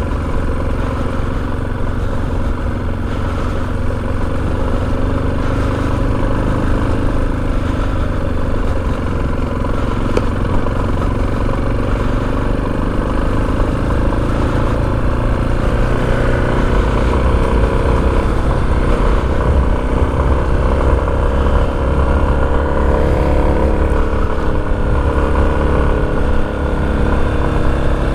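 Motorcycle engine running as the bike is ridden, steady throughout, with its pitch drifting gently up and down in the second half.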